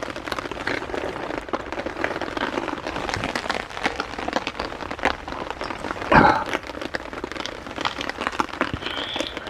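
Heavy rain pattering steadily, with many separate drop hits. A single louder thump or rustle about six seconds in.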